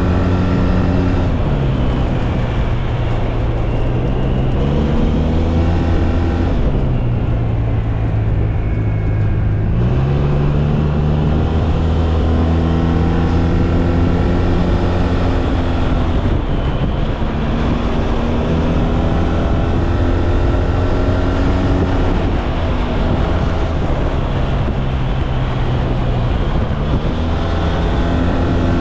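SYM Maxsym TL 508 maxi-scooter's parallel-twin engine running under way, its pitch falling and rising several times as the throttle is closed and opened, with a steady rush of wind and road noise underneath.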